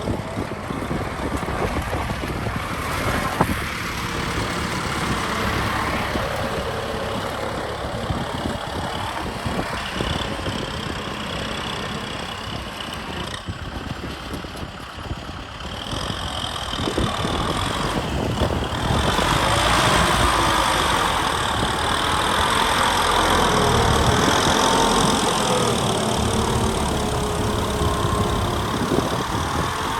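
Kubota M6040 SU tractor's diesel engine running steadily, growing louder a little past halfway through.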